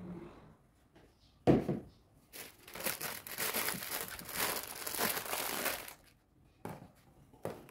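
A sharp knock, then plastic crinkling and rustling for about three and a half seconds, with two light clicks near the end.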